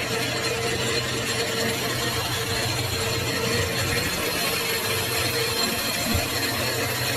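Metal lathe running steadily: a continuous motor hum with a faint high whine, unchanging throughout.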